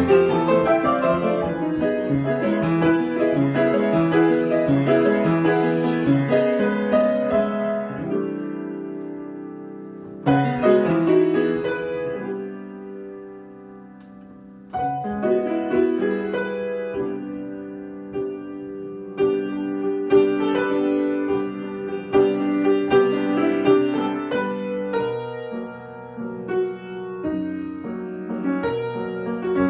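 Solo piano improvisation. Flowing runs of notes thin out and fade about eight to ten seconds in, then struck chords about ten and fifteen seconds in ring and die away before the playing picks up again.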